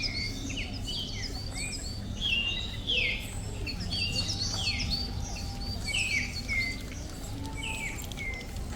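Several birds chirping and singing in a busy chorus of short, mostly falling notes, over a steady low rumble.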